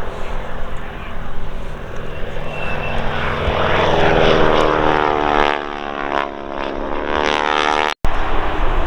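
Boeing Stearman biplane's radial engine and propeller on a low pass. The engine note builds to its loudest a few seconds in, then falls in pitch as the aircraft goes past and away. The sound drops out for an instant near the end.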